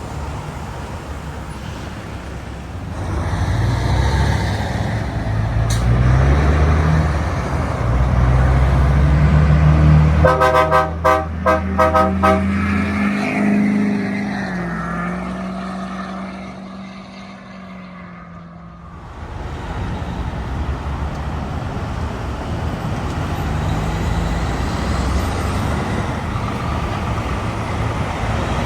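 A truck's engine pulls away, its pitch climbing in steps through the gears. About ten seconds in, its horn sounds in a quick series of about five short toots. The truck then fades as it passes, and steady road traffic noise follows.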